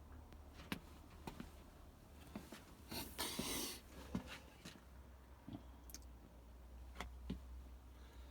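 Faint scattered clicks and light knocks of things being handled, with a brief hiss about three seconds in, over a steady low hum.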